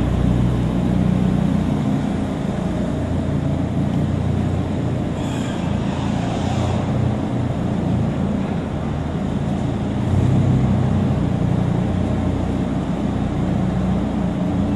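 Lamborghini Huracán's V10 engine running at low revs as the car pulls away and rolls slowly through an underground parking garage, getting a little louder about ten seconds in.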